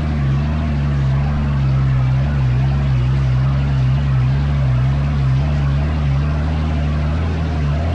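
Dune buggy engine running steadily at a low, even pitch, wavering slightly up and down now and then.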